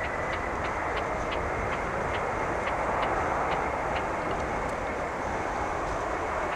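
KLM Airbus A330-200's jet engines at takeoff power: a steady roar with a high whine that rises slowly and then holds. A faint regular ticking runs through it, about three ticks a second.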